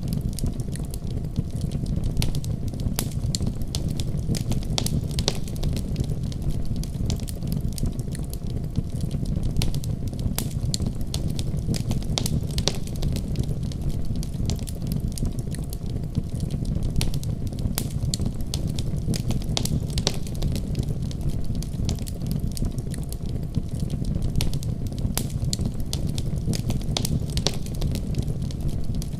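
Wood fire crackling in a fireplace, with many small pops and snaps over a steady low rumble.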